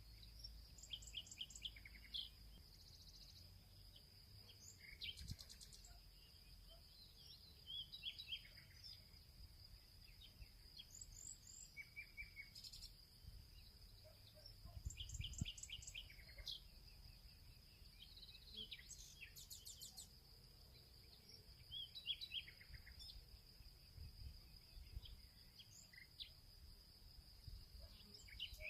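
Faint field ambience: small birds chirping and trilling in short, repeated phrases every few seconds over a steady, high-pitched insect drone.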